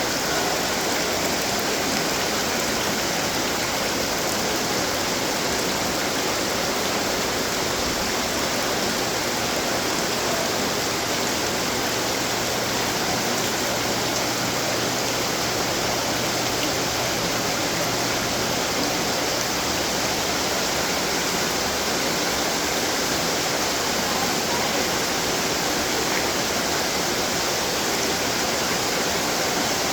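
Many decorative water fountains running together, a steady splashing and trickling wash of water. A faint low hum underneath stops about two-thirds of the way through.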